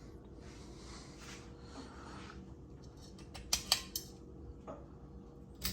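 Ceiling fan pull chain and pull-chain switch being handled: a few sharp metallic clicks and rattles about three and a half seconds in and again at the end, over a faint steady background.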